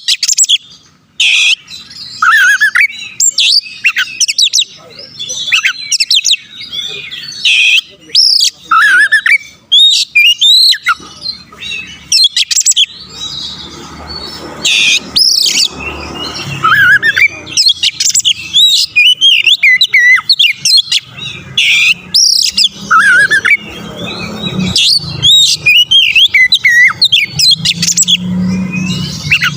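Oriental magpie-robin (kacer) singing a fast, varied song of whistled notes and chirps without a break. A low background rumble joins from about halfway through.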